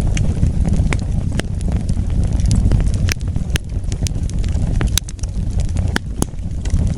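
Wood fire burning, with irregular sharp crackles and pops over a low, steady rumble of flames.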